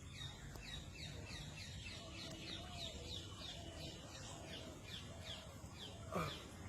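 A bird calling a quick, even series of short descending chirps, about three a second, with fainter low clucking calls under it. A louder, sudden call comes near the end.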